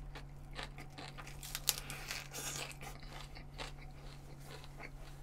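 Close-up chewing of a lettuce wrap of grilled pork: a run of small crisp crunches and crackles, one sharper near the middle, over a steady low hum.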